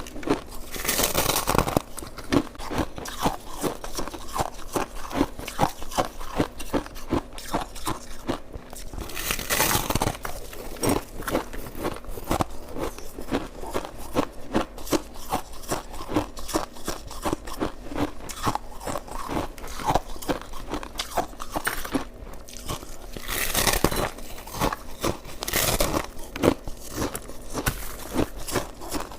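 Close-up crunching and chewing of shaved ice: a steady, rapid run of small crisp crackles, with a few louder crunches near the start, about ten seconds in, and near the end.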